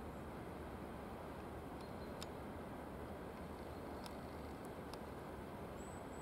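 Freight train hauled by a 2ES4K DC electric locomotive approaching from a distance: a steady low rumble of wheels on rails and running gear. A few faint sharp clicks come about two, four and five seconds in.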